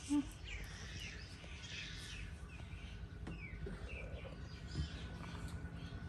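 Birds chirping: faint, short falling chirps repeated throughout over a steady low background noise.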